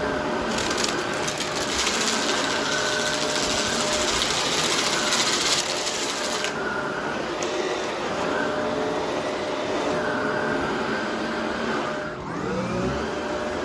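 Vacuum cleaner running steadily over carpet. From about half a second in to about six and a half seconds it crackles with debris being sucked up through the brush roll. Near the end the motor dips briefly and spins back up.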